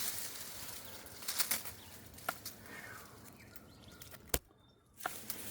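Leafy apple-tree branches rustling as they are pulled and dragged, with a few sharp cracks of twigs. The sound cuts out completely for about half a second near the end.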